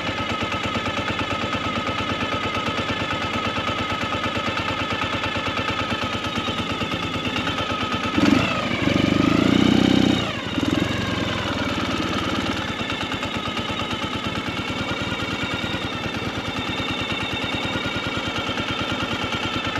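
Ural sidecar motorcycle's air-cooled flat-twin engine running at low speed with a rapid, even pulse. About eight seconds in it gets louder and deeper for about two seconds, its pitch bending, then settles back to the steady beat.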